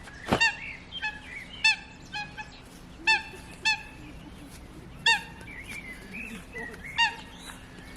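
A bird giving short honking calls, about seven of them at irregular intervals, each dropping slightly in pitch. A sharp click comes just before the first loud call, and a faint steady hum runs underneath.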